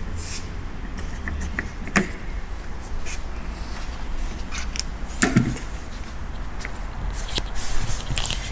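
Scattered metallic clinks and knocks of hand tools working on a car's front suspension, the loudest about two seconds in and just past five seconds, with a few short scrapes, over a steady low hum.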